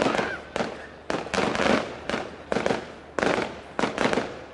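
Fireworks going off in quick succession: a dozen or so sharp bangs, about two to three a second, each with a short echoing tail.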